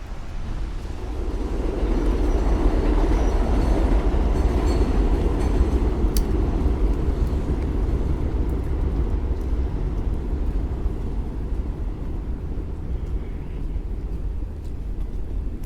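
Elevated subway train passing on steel track: a rumble that builds over the first two seconds, stays loudest for a few seconds with a faint high squeal of wheels on rail, then slowly fades away.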